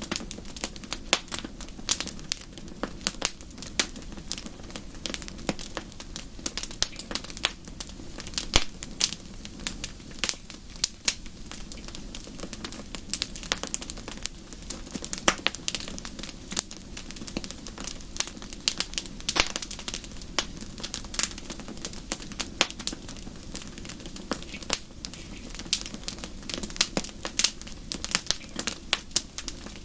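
Wood fire in a fireplace crackling, with many sharp irregular pops and snaps over a low steady rumble of the flames.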